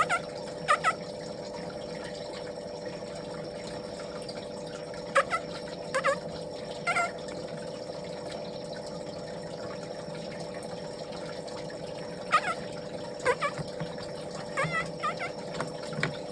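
Baby birds giving short, high chirps, one at a time or a few together, every second or few seconds, over a steady hum.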